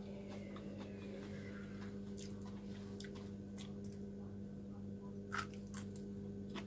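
Close-up chewing of crunchy half-cooked okra: faint crunches and mouth clicks, scattered, with a slightly louder crunch a little after five seconds, over a steady low hum.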